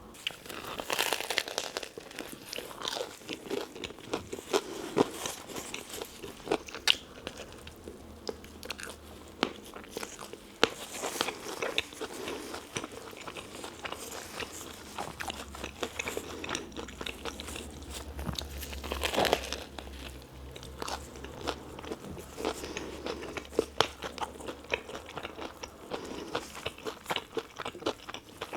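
Close-miked bites into a tuna melt sandwich and chewing, with crisp crunches of the toasted bread and wet mouth sounds, the crunches coming in clusters every second or two.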